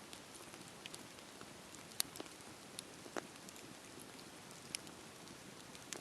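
Wood fire crackling: a soft steady hiss with scattered sharp pops, the loudest about two seconds in.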